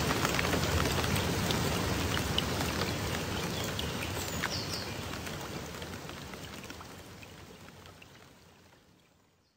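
Rain falling, with single drops ticking through the steady hiss; it fades out gradually over the second half.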